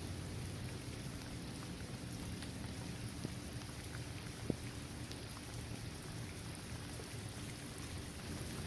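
Steady rain falling on a paved basketball court, trees and grass, with scattered drop ticks and one sharper drip about halfway through.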